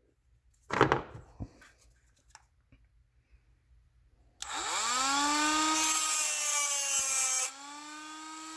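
Cordless Dremel rotary tool with a grinding stone starting about four seconds in, its whine rising as it comes up to speed, grinding the cap off an LS truck fuel injector. About three seconds later the grinding eases and the tool keeps spinning more quietly. A short scrape or clatter about a second in.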